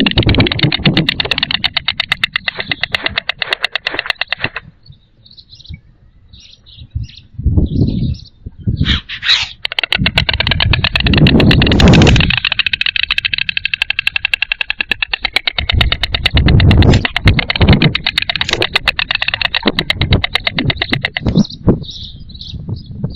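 White storks bill-clattering: long trains of rapid wooden clacks in two bouts, one breaking off a few seconds in and a longer one starting about ten seconds in. Between the bouts and near the end are faint small-bird chirps, and low rumbling swells run throughout.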